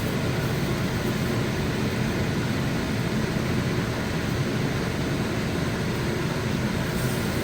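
Steady, even rushing noise with a low hum, like a running fan.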